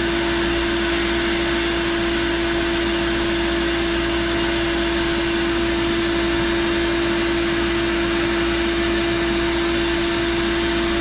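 Sandblasting: a steady hiss of abrasive blasting together with the steady whine of a vacuum motor drawing off the dust.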